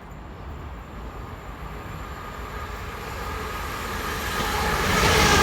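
Class 387 electric train approaching at speed on a non-stop run, its rushing noise growing steadily louder, most sharply in the last second and a half.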